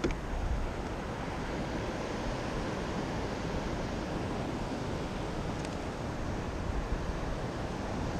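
Steady wash of wind and sea water, with wind rumbling on the microphone.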